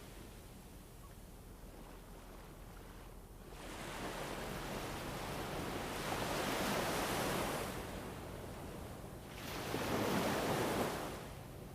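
Recorded wind ambience gusting in slow swells: it rises about four seconds in, peaks for a couple of seconds, dies back, then gusts again near ten seconds.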